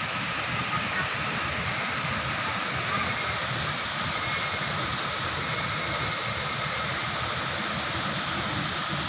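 Steady rushing of a waterfall at moderate flow.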